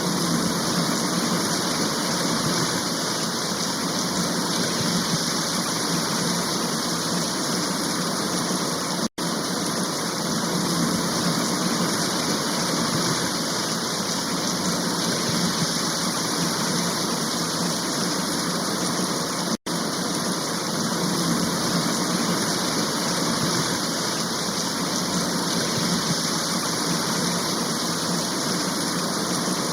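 Steady, heavy rain: a dense, even hiss of falling water with no separate drops standing out. It cuts out for an instant twice, about 9 and 20 seconds in.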